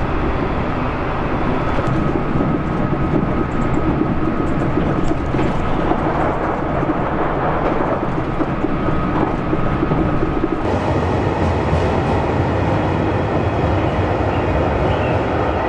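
Running noise of a JR Shikoku 2000 series diesel tilting express, heard from inside the passenger car at speed. About ten seconds in it cuts to a station platform as a JR Shikoku 8000 series electric express train pulls in.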